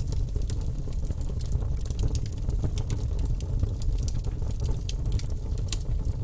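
Fire in a fireplace crackling: many small, sharp pops over a steady low rumble.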